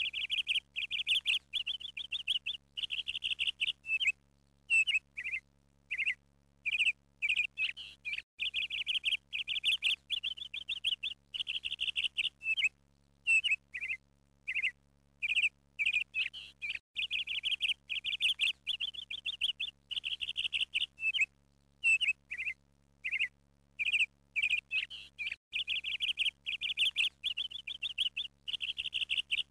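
Small bird chirping in quick trills and short calls, with brief pauses between phrases. The same sequence repeats about every eight and a half seconds, as in a looped recording. A faint steady low hum lies underneath.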